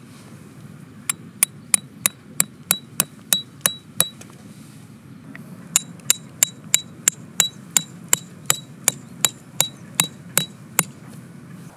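Metal tent stakes being driven into the ground with a hammer: two runs of quick, evenly paced blows, about three a second, each with a ringing metallic clink. There is a short pause between the runs.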